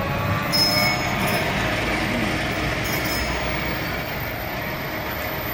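Electric tram running along its rails with a steady rumble, and brief high-pitched wheel squeals twice.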